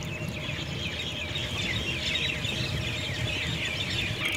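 Small birds chirping rapidly and continuously, many short, quick, falling chirps overlapping one another, over a low steady rumble.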